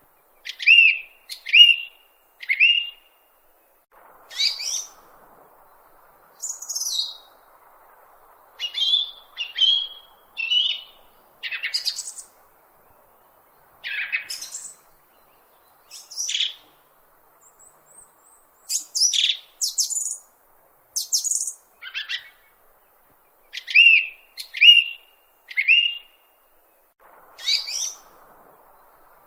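A bird chirping repeatedly: short, sharp, high calls, many sweeping quickly downward, in irregular groups of two to four.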